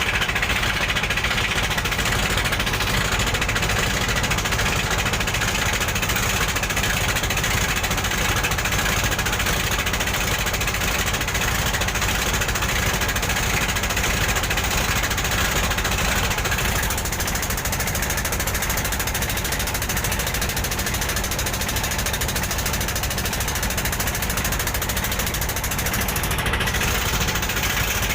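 Boat engine running steadily through the crossing, with a low even throb under a broad rushing noise that eases slightly partway through.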